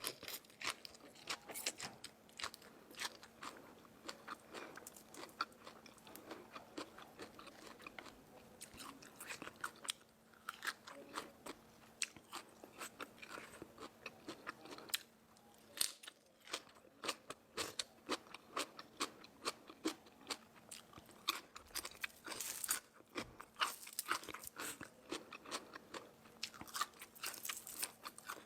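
Close-up chewing and crunching of crispy food, many sharp irregular crunches in quick succession with short pauses between bites.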